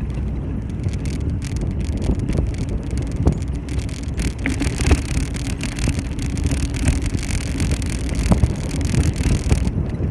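Riding noise from a bicycle with a camera on board: a steady low rumble of wind on the microphone and rolling tyres, broken by frequent small rattles and knocks from the bike.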